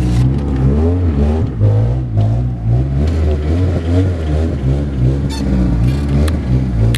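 Car engine running at low revs, its pitch rising and falling as the car is eased back in reverse.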